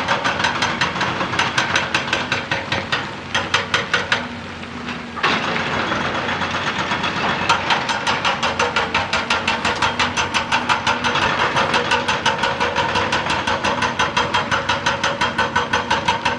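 Excavator-mounted hydraulic rock breaker hammering in a rapid, even stream of blows over the machine's running engine. The blows stop for about a second, a little after four seconds in, then start again.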